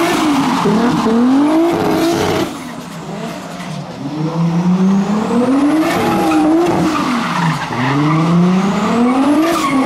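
Toyota Chaser JZX100's turbocharged 1JZ straight-six revving up and down again and again as the car drifts, with tyre squeal. The engine drops back briefly about two and a half seconds in, then climbs hard in long rising sweeps.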